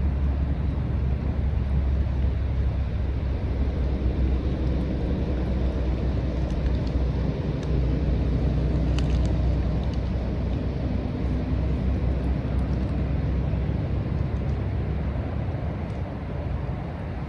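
A steady low engine drone, with rain hissing around it and a few faint drips ticking.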